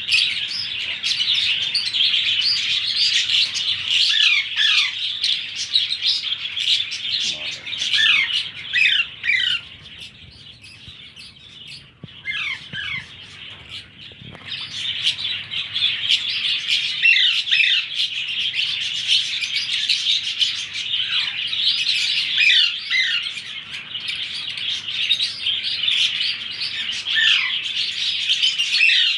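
Baby ringneck parrot chicks chirping continuously in a dense, shrill chorus full of quick falling calls: the begging calls of chicks at hand-feeding time. The calling eases off for a few seconds about a third of the way through, then picks up again.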